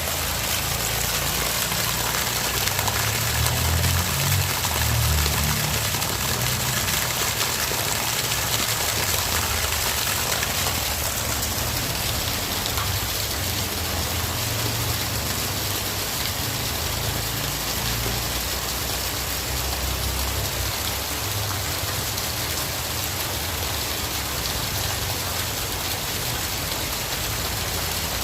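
Heavy rain falling steadily, an even hiss of many drops. Underneath it a low rumble rises and falls, heaviest in the first few seconds.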